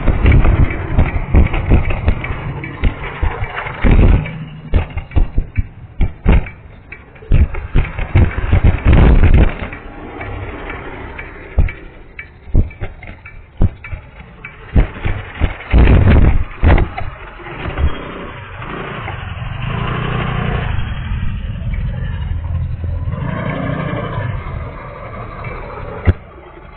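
A vehicle running on a punctured tyre, making an abnormal noise: irregular heavy thumps and clatter, then a steadier running sound in the last third.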